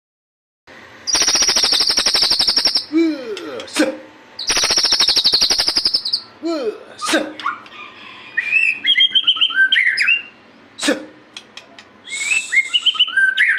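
White-rumped shama (murai batu) singing: two long, fast rattling trills a couple of seconds each, then a run of varied whistled phrases with sliding notes and a few low swooping calls.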